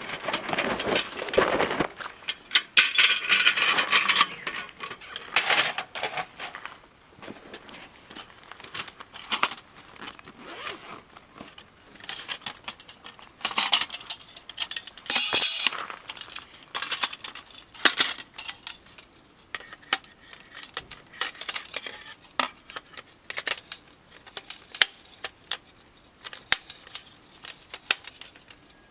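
Camp gear being handled: light metallic clinks and taps scattered throughout, with bursts of rustling near the start and again about halfway through.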